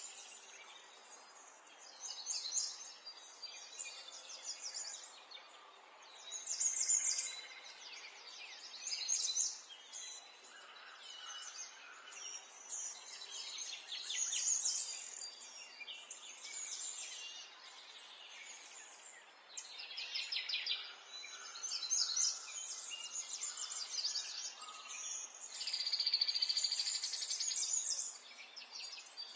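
Songbirds singing, high-pitched phrases of rapid trills and chirps coming every few seconds over a faint outdoor background.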